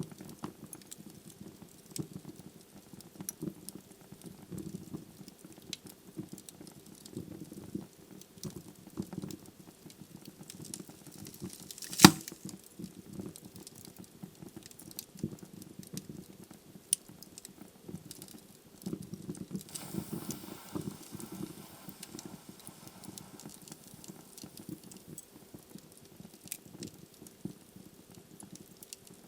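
Wood logs burning in a fireplace: irregular small crackles and pops over the low flutter of the flames, with one loud sharp pop about twelve seconds in.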